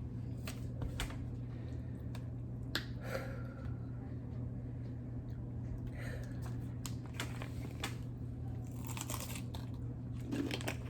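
Quiet crunching and chewing of Takis chips, with scattered small clicks and rustles, over a steady low electrical hum.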